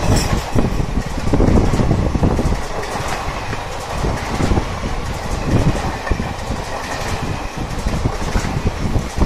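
Indian Railways ICF passenger coaches passing close by at speed: a steady rumble with wheels clattering over the rail joints.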